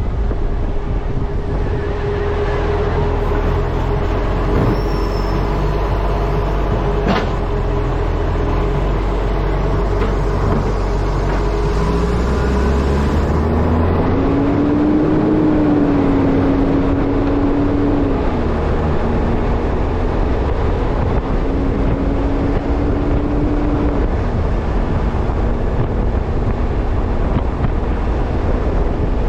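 Wind buffeting a camera mounted on the front of a garbage truck, over the truck's engine running. About twelve seconds in, the engine note rises as the truck picks up speed, then levels off and dips slightly a couple of times.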